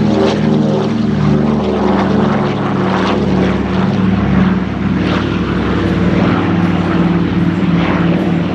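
Douglas C-47 Dakotas' twin Pratt & Whitney R-1830 radial engines and propellers running at display power, a loud, steady drone made of several engine tones.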